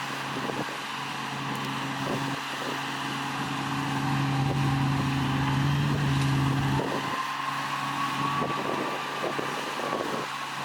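Heavy diesel engine of earthmoving machinery running, its steady hum swelling somewhat midway and falling away about seven seconds in, as a higher whine rises and holds to the end.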